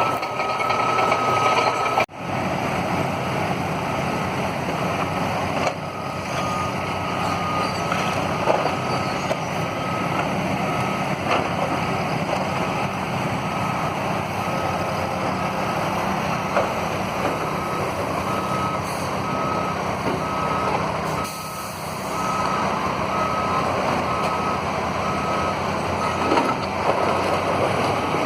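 Heavy demolition machine's engine running steadily while its backup alarm beeps over and over. The sound drops out briefly about two seconds in.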